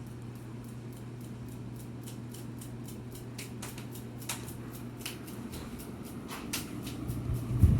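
Casa Vieja Deville ceiling fan running, its motor humming steadily while a light, regular ticking repeats about three times a second, with a few sharper clicks midway. The ticking comes with the fan's wobble. The sound grows louder near the end.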